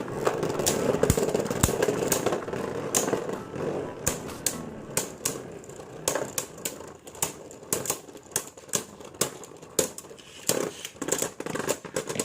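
Beyblade top spinning in a stadium just after launch, whirring and clacking against the walls in irregular sharp clicks, the whirr fading over the first few seconds.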